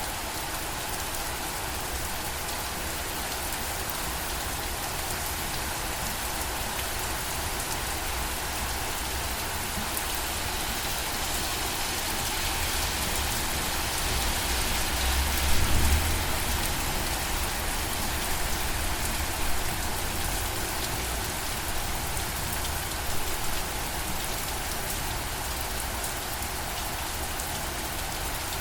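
Steady rain falling on a surface, a dense even patter of drops. A little past halfway a brief low rumble swells up and fades.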